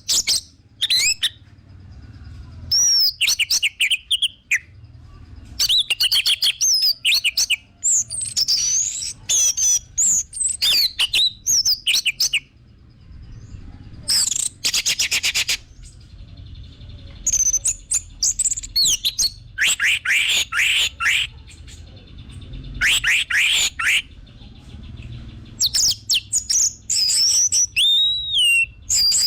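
Orange-headed thrush (anis merah) singing in full voice: a run of loud, varied phrases of quick sweeping whistles and fast rattling trills, broken by short pauses.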